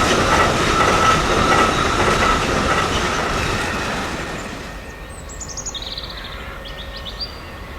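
A train rolling past on the track, wheels clattering with a steady high squeal, dying away about halfway through as it recedes. A few short, high chirps follow near the end.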